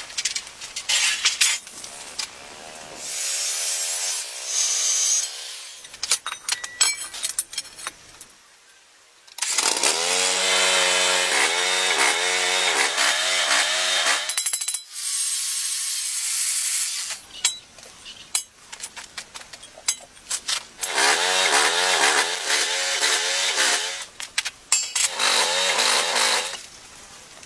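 Power saw cutting wood in several runs of a few seconds each, its motor pitch wavering under load, with knocks and clatter of wood between cuts.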